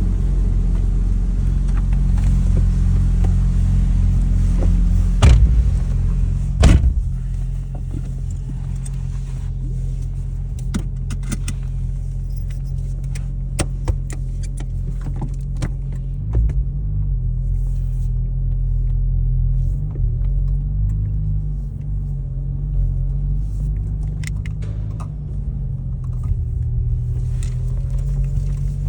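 Porsche 996's flat-six engine idling steadily, with two sharp knocks about five and seven seconds in and scattered light clicks after them.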